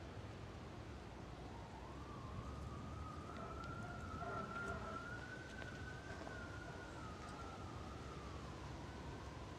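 Faint distant emergency-vehicle siren wailing, one slow rise and fall in pitch, over a low steady rumble.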